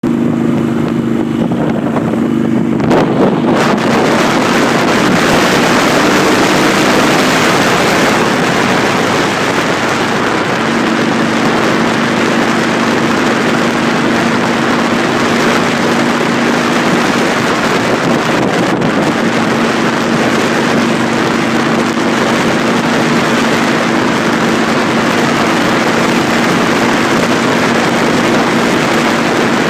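Motorcycle engine running at a steady cruise under heavy wind rush on the microphone, which swells about three seconds in.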